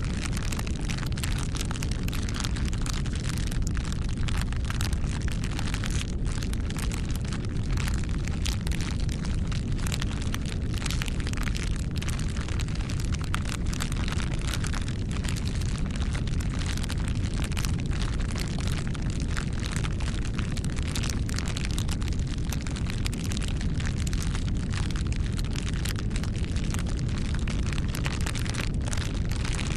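Campfire burning: wood crackling and popping in many quick sharp snaps over a steady low rumble of the flames.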